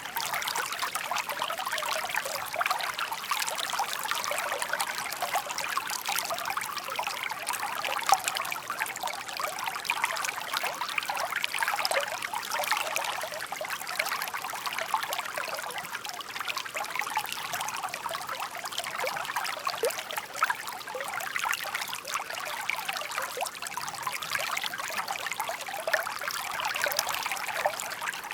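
Shallow stream babbling and trickling over stones, a steady rush of water with many small splashes.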